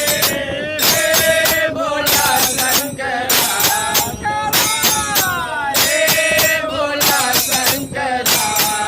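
Devotional song: a voice singing a bending melody over jingling hand percussion that strikes a regular beat.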